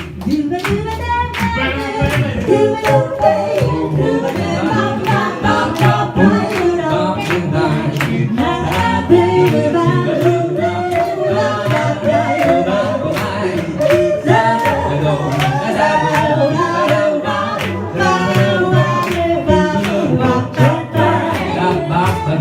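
An a cappella vocal group singing in close harmony, several voices layered, over a steady, sharp percussive beat.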